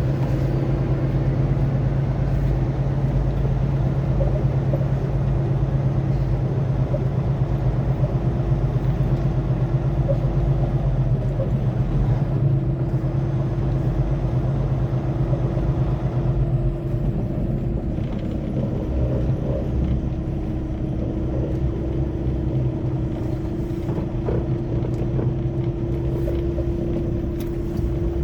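Semi-truck engine running steadily under way with road noise, heard from inside the cab: a constant low drone.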